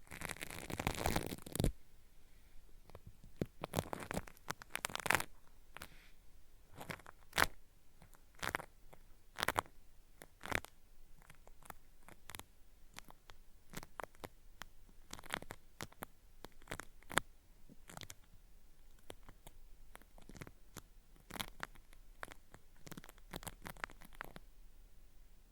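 Cotton swab rubbed against a binaural microphone in ASMR ear-cleaning style, making irregular crisp crackling scratches meant to sound like ear wax peeling away. It is a dense stretch of rubbing for the first couple of seconds, then scattered single crackles.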